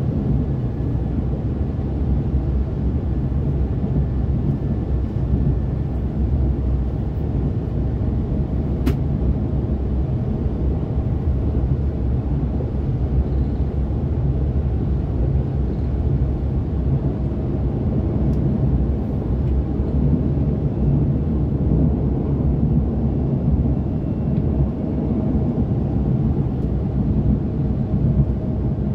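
Malaysian KTM ETS electric train running along the line, heard from inside the carriage as a steady low rumble, with a single sharp click about nine seconds in.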